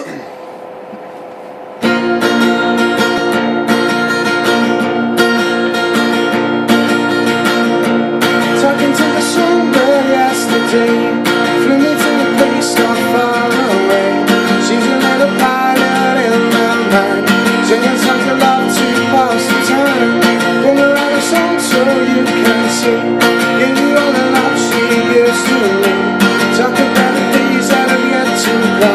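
Acoustic guitar strummed in a steady rhythm, starting about two seconds in after a brief click.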